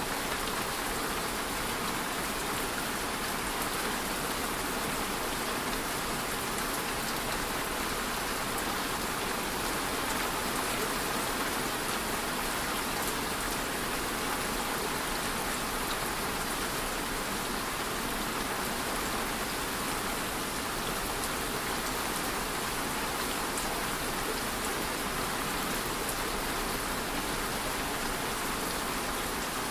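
Steady rain falling, a dense even hiss of many drops on a surface.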